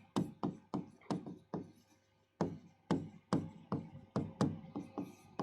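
Irregular light tapping or knocking, about two to three taps a second, with a pause of nearly a second a little before the middle.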